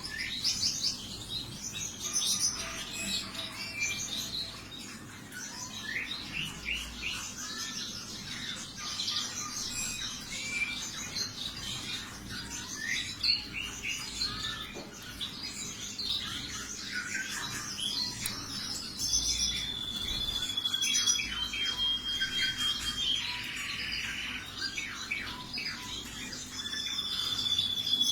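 Several canaries chirping and singing at once: dense, overlapping quick calls, with a few long held whistled notes in the second half.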